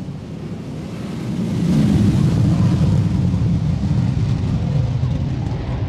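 F-16 fighter jets' engines at full afterburner on the takeoff roll: a steady deep rumble that swells about two seconds in.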